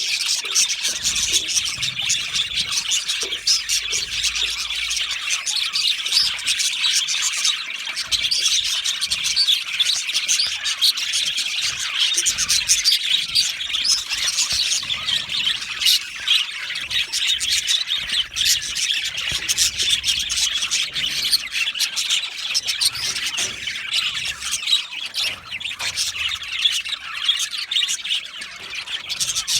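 A flock of budgerigars chirping and chattering continuously, many birds calling at once in a dense, high-pitched mix with occasional squawks.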